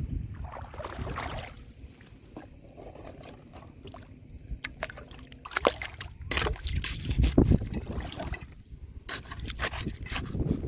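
Water sloshing and trickling, with a run of sharp knocks and scrapes of stones from about four seconds in, as rocks and gravel are dug in a river bed.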